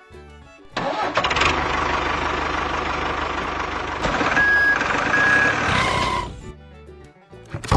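Truck engine running for about five seconds, with two short reversing beeps near the middle, then cutting off. Faint background music.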